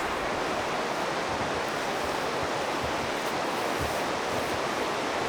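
Steady rushing of river water, an even hiss with no distinct events.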